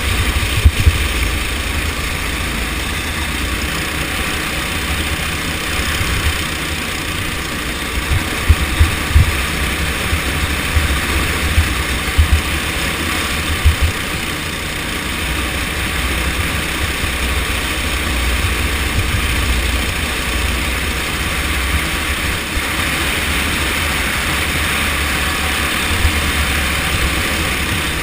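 Go-kart engine running steadily through a race, with gusty low rumbling and occasional short thumps mixed in.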